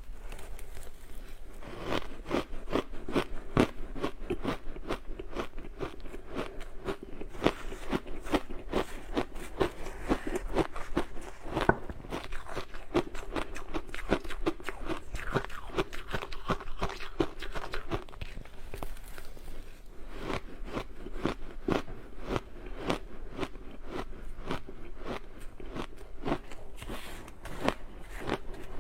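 A person biting and chewing ice close to the microphone: a rapid, continuous run of crisp crunches, several a second.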